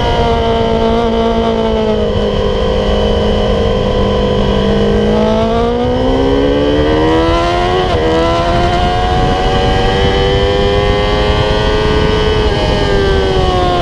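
Yamaha YZF-R6 inline-four with an MGP Growler exhaust, heard onboard at high revs: the pitch eases off through a turn, then climbs hard under acceleration, with a quick upshift about eight seconds in before it keeps rising, over steady wind rush.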